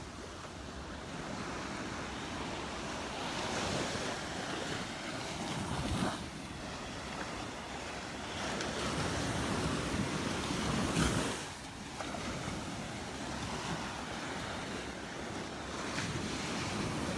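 Waves breaking and washing up a sandy beach, the surf swelling and easing, with wind buffeting the microphone in short gusts.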